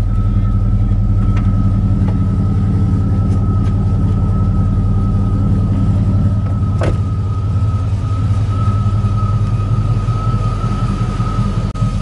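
A vehicle engine running steadily with a deep, even rumble, and a thin steady high-pitched tone over it throughout. There is a single sharp click about seven seconds in.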